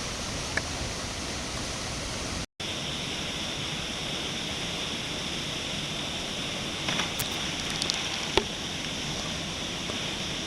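Steady rush of a waterfall, with a brief cut-out about two and a half seconds in and a few faint knocks later on.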